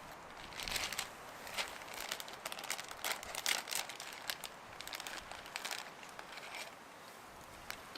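Irregular crinkling and crunching, many short crackly strokes with the busiest stretch in the middle.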